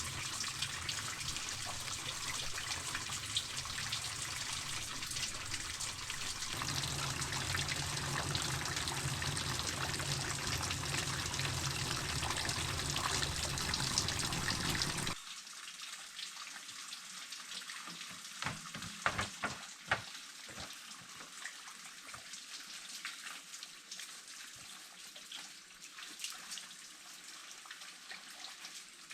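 Running water, a steady trickling splash. About halfway it cuts off suddenly to a quieter background with a few sharp clicks.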